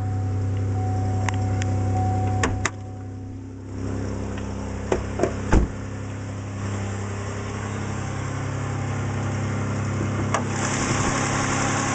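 2001 Chevy Impala's 3.4-litre V6 running steadily at idle, with a few sharp clicks about halfway through and a hiss that grows louder near the end.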